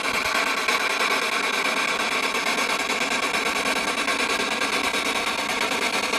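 Handheld spirit box sweeping radio frequencies: a steady rush of static with faint steady tones running through it.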